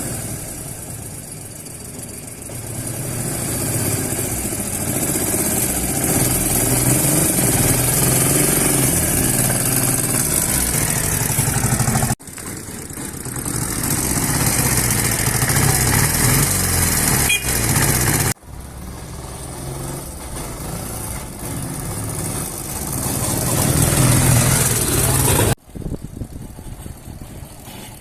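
Ural IMZ 8.103.10 motorcycle's opposed-twin (boxer) engine running, its sound swelling and easing. It breaks off abruptly three times and resumes at once.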